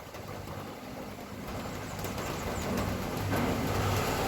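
A motor vehicle approaching on the street, its engine growing steadily louder.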